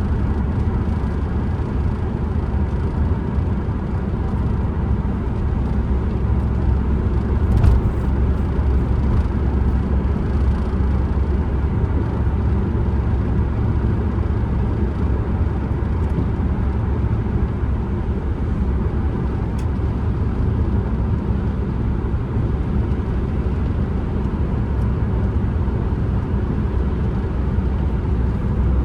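Ford Transit Connect driving on the road, with a steady low rumble of engine and road noise. There is one short knock about eight seconds in and a couple of faint ticks later.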